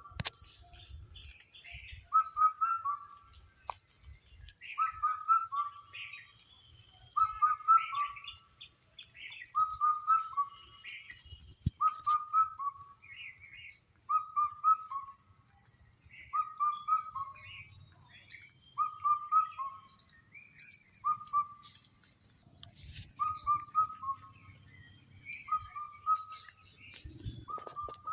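A bird repeating the same short call of a few quick notes about every two and a half seconds, a dozen times over, above a steady high hiss.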